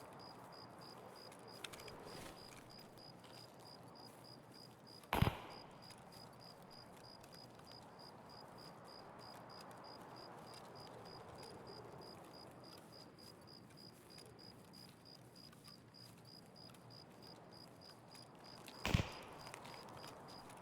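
Two single pistol shots, one about 5 seconds in and one near the end, each a sharp crack with a short tail. Between them there is a faint, steady, evenly pulsed chirping, like an insect.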